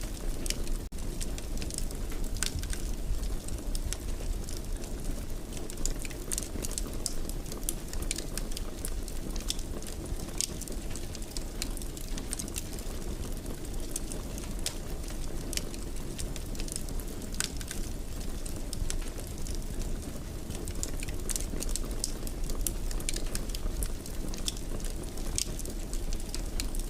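Wood fire crackling in a fireplace: a steady low noise of burning, broken by frequent small, sharp crackles and pops scattered throughout.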